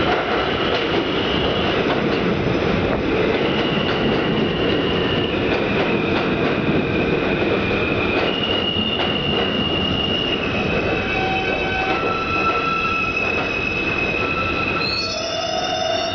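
Kawasaki/Alstom R160 subway train running through the station: a steady heavy rumble of wheels on rail, with high-pitched squealing tones that hold and then jump to new pitches, and a brief cluster of rising squeals near the end.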